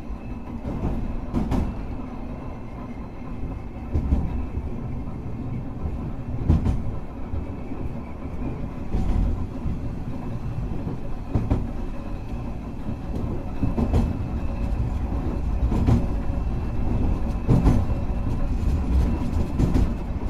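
Hankai Tramway tram no. 351 running along the line: a steady low rumble, with a sharp wheel knock over rail joints about every two seconds and a faint thin high whine.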